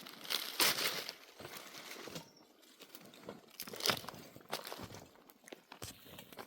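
Irregular rustling and crinkling handling noise in bursts, loudest at the start and again about four seconds in, with light crackles between.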